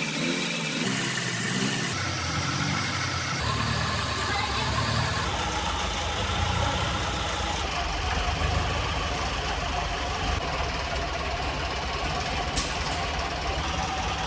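Engine of an old Massey baler running steadily at idle with a fast, even firing beat.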